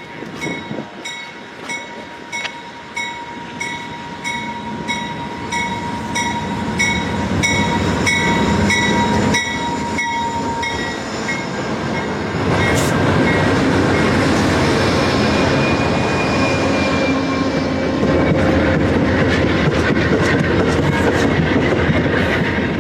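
A train passing close by. For about the first half a bell rings steadily, about one and a half strikes a second, then stops. The louder rumble and clatter of the train's wheels on the rails then carries through to the end.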